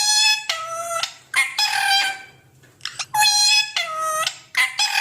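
Pet parrot calling: a quick series of about six loud, many-toned squawks, each half a second to a second long, some gliding in pitch, with short gaps between them.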